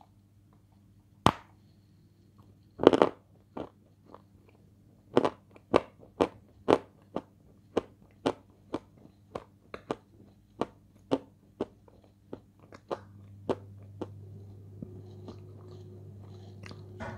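Dry edible clay (Turkestan clay) bitten and chewed close to the microphone: a sharp crack, a loud crunching bite about three seconds in, then steady crunching chews about twice a second that grow fainter toward the end.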